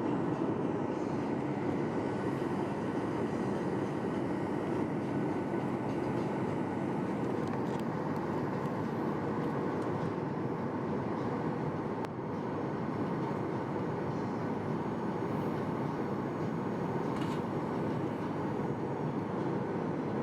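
Steady cabin rumble and airflow rush inside a Boeing 737-800 airliner in flight, its CFM56 engines and the air over the fuselage making an even, unbroken roar with a faint high tone above it.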